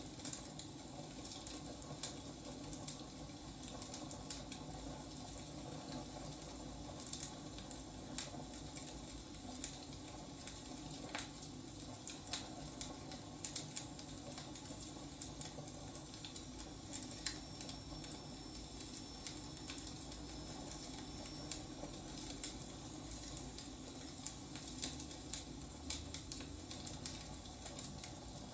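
Wood fire burning: a steady low rush of flames with irregular sharp crackles and pops from the burning logs.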